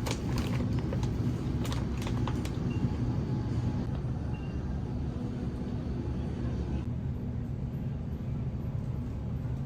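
A steady low rumble of a moving vehicle, with a few light clicks in the first two and a half seconds.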